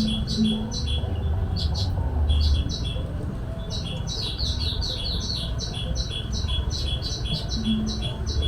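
Small bird's high chirping call, repeated quickly and evenly at about three to four notes a second, with a short pause partway through.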